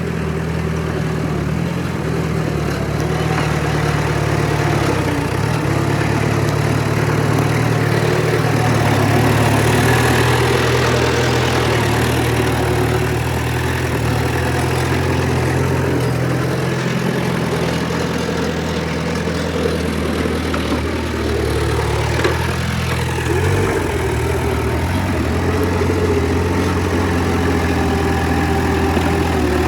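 Heavy diesel engine of earthmoving machinery running steadily, with small changes in engine speed.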